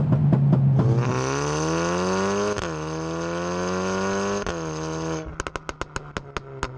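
Volkswagen Golf 8 R's Stage 2-remapped 2.0-litre turbo four-cylinder at full throttle. The revs climb, drop at a quick gearshift about two and a half seconds in, climb again and shift again near four and a half seconds. About five seconds in the throttle is lifted, and the engine note cuts off into a rapid string of exhaust pops and crackles.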